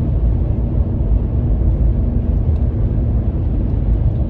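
Steady, deep rumbling noise with no distinct events, strongest in the deep bass.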